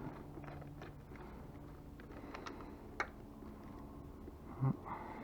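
Small clicks and rattles of hands and tools working on ebike wiring, with one sharper click about three seconds in and a brief dull knock near the end, over a faint steady hum.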